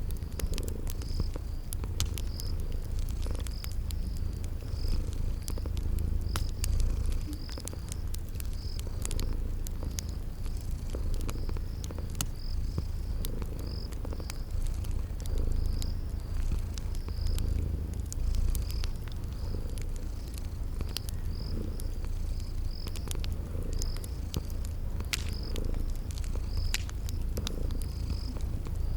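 Cat purring steadily, a low rumble that swells and eases with each breath. Through it a cricket chirps in an even rhythm about twice a second, and a wood fire crackles with scattered sharp snaps.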